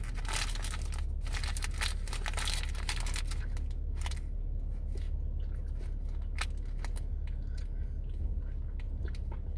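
Crinkling and crackling of a candy bar's wrapper, dense for the first few seconds and then thinning to scattered clicks, over a steady low hum.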